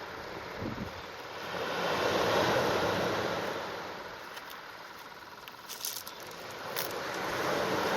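Sea waves washing in at the shore, a rushing noise that swells about two seconds in, dies down, and swells again near the end, with a few faint clicks.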